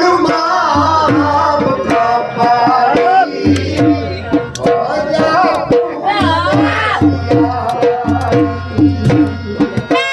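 Gujarati folk music: a sarnai plays a sliding, bending melody over steady dhol drumming.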